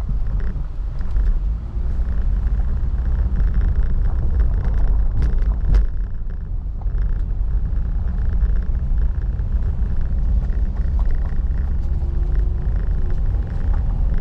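Car driving on a rough road, heard from inside: a steady low engine and road rumble with faint rattles.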